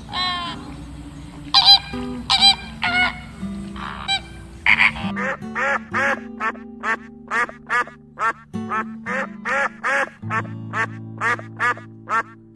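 An animal giving short repeated calls, a few scattered ones at first, then a quick run of about two a second from about five seconds in, over steady background music.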